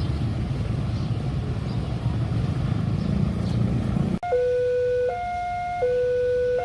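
A steady low vehicle rumble that cuts off suddenly about four seconds in. It gives way to a two-tone electronic warning signal, alternating high and low notes of under a second each, like a level-crossing alarm.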